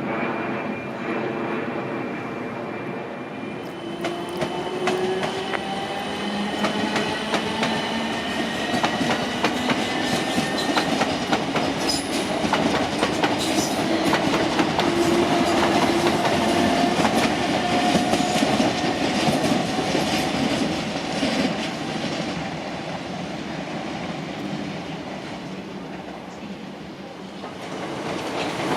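A train running through the station, its wheels clicking over rail joints and points, with a whine that slides slowly in pitch. It grows louder for the first half, then fades away toward the end.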